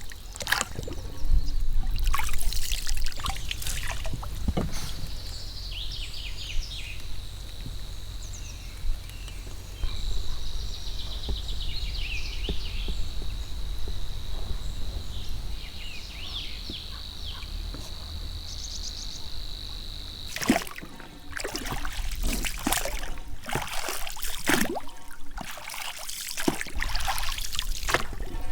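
Water trickling and splashing with irregular strokes, under a steady low rumble. High bird calls and a thin steady high tone run through the middle of the stretch.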